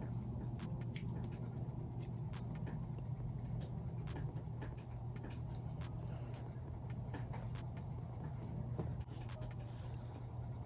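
Razor cutting into the ends of a human-hair wig, a run of short scratchy strokes, over a steady low hum.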